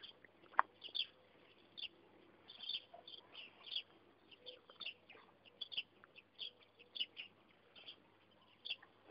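Faint, scattered chirps of small birds, a couple every second, with a single sharp click about half a second in.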